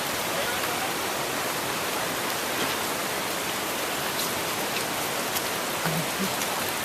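Steady rain falling, a dense even hiss with a few scattered drop ticks.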